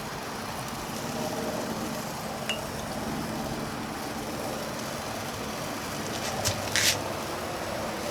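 Boiling water poured into a Brinkman charcoal smoker's water pan, giving a steady hiss. A light metal clink comes about two and a half seconds in, and a couple more near the end.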